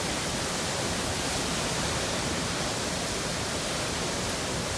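Hurricane-force wind and rain beating on a car, heard from inside as a steady, even rush of noise.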